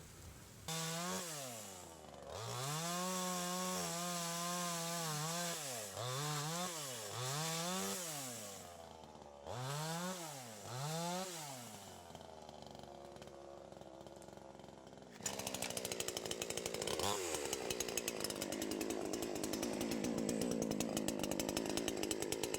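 Two-stroke Farmertec JonCutter chainsaw revving again and again, some revs held for a few seconds, falling back to a low idle between them and idling near the middle. About fifteen seconds in, a louder chainsaw sound with rapid even firing pulses starts suddenly and runs on.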